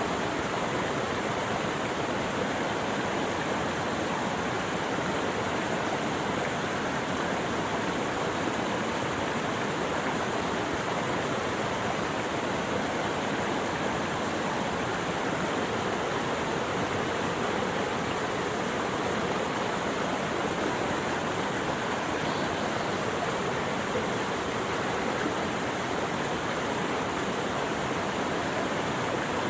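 Running water rushing steadily, an even wash of noise with no breaks or distinct events.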